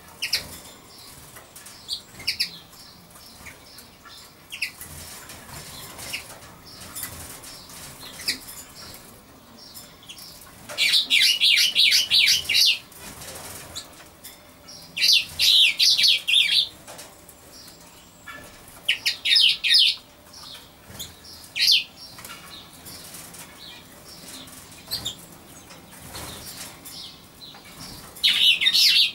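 A bird singing nearby in loud phrases of rapid, high notes, each lasting one to two seconds, four times, with a few single chirps between them.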